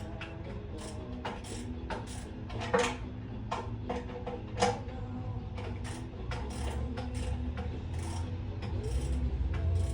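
Irregular metallic clicks and clinks of hand tools being worked on a car, with two sharper, louder clinks about three and four and a half seconds in. Radio music plays underneath.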